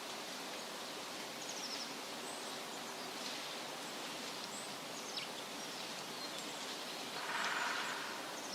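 Wind rustling through tree leaves as a steady hiss, with a few faint, brief high bird chirps scattered through. Near the end a louder rustling swell lasts about a second.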